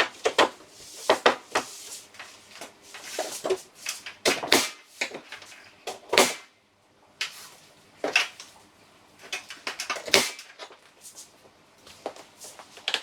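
Irregular knocks, clunks and short scrapes of carpentry work on wooden wall trim, at an uneven pace with brief pauses.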